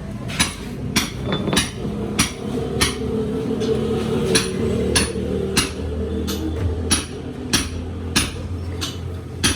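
Hammer blows on metal, about fifteen evenly paced strikes, a little under two a second, with a short pause about three seconds in: cylinder sleeves being driven into a tractor engine block.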